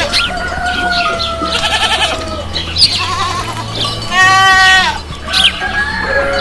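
Goats bleating: a long call at the start, a loud, quavering bleat about four seconds in, and further calls near the end.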